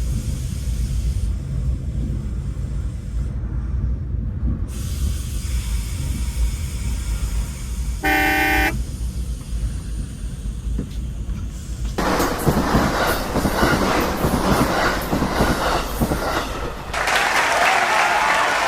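Train running with a steady low rumble. A short horn blast sounds about eight seconds in, then louder rail and wheel noise comes in from about twelve seconds, with wheels squealing near the end.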